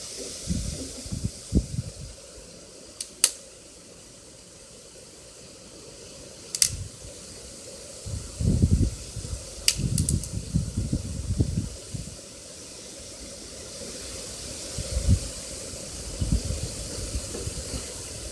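Food frying in a pan on a stove, making a steady sizzle with a few sharp pops and some low bumps.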